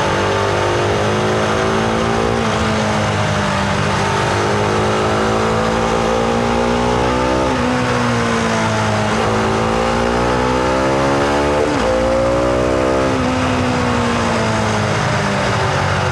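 Husqvarna Vitpilen 701's single-cylinder engine running under way, heard onboard, its revs rising and falling through the ride, with a quick drop in pitch about twelve seconds in as it shifts up. Wind and road noise sit under the engine.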